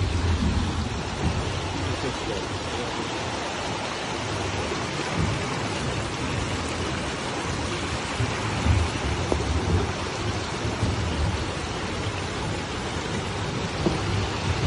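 Heavy rain pouring down over rushing floodwater: a steady, dense hiss with low rumbling swells every few seconds.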